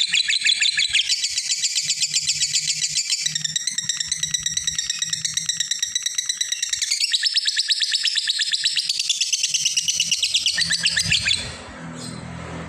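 Lovebird singing a long 'ngekek': a fast, unbroken chattering trill of sharp, high notes. It stops about eleven seconds in, leaving a quieter, rougher chatter. This is the call that fighter lovebird keepers use to provoke other birds into chattering.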